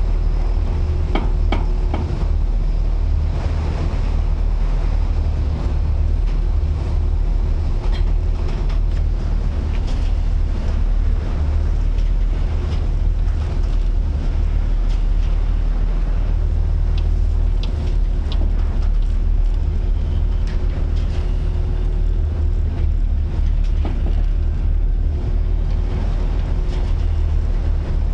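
A ship's engine drones steadily beneath a constant rush of wind and rough sea, with wind buffeting the microphone. Scattered short knocks and rattles come through now and then.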